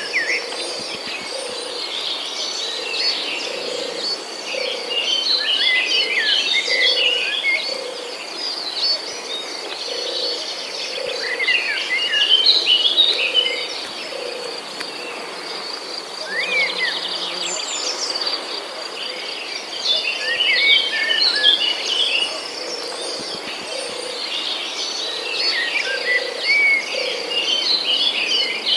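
Several birds chirp and twitter in bursts over a steady, high, pulsing insect trill like a cricket's. A soft low call repeats at an even pace underneath.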